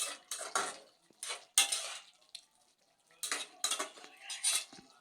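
A metal spoon or spatula scraping and clinking against a cooking pan as food is stirred, in three bunches of short strokes with brief pauses between them.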